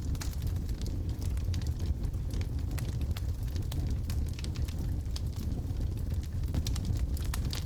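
Wood logs burning in a fireplace: a steady low rumble of the flames with frequent small sharp crackles and pops, more of them near the end.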